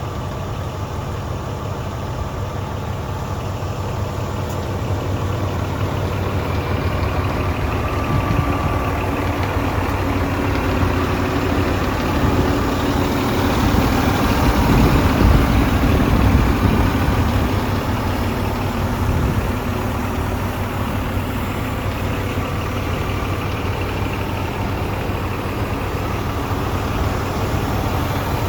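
Scania P420 hook-lift truck's diesel engine running steadily at idle, growing somewhat louder around the middle before settling back.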